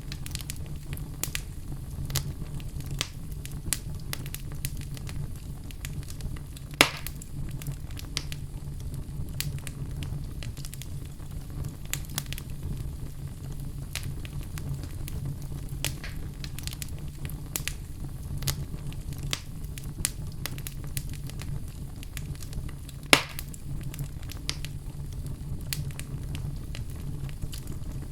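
Wood fire burning in a fireplace: a steady low rumble under a constant scatter of small crackles, with two louder sharp pops, one about a quarter of the way in and one about four-fifths of the way through.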